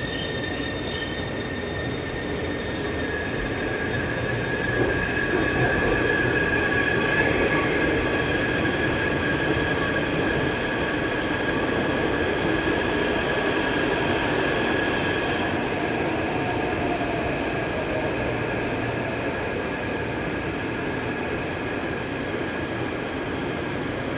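Taipei Metro train pulling into the station, its wheels squealing on the rails in several steady high tones over the running rumble. The sound is loudest about six to eight seconds in, then eases off as the train slows.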